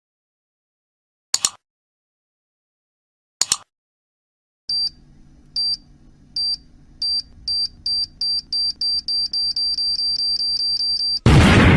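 Two sharp clicks, then a high electronic beep repeating faster and faster until the beeps run together, ended by a loud explosion near the end: a time-bomb countdown sound effect.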